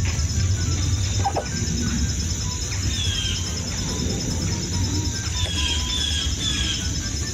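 A few short, falling bird chirps, one about 3 s in and three more close together near the end, over a steady low rumble and a steady high hiss.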